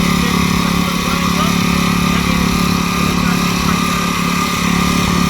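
Small gasoline engine of a garden rototiller running steadily under load.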